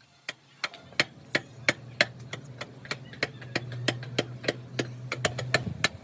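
Hammer blows struck at a steady pace of about three a second, each a sharp strike. A low steady hum runs underneath from about a second in until near the end.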